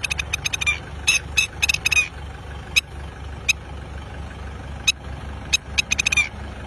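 A bird's sharp, high alarm calls, given in quick runs of several and repeated throughout, over the steady low hum of an idling engine. The calls are a parent's agitated alarm in defence of its young.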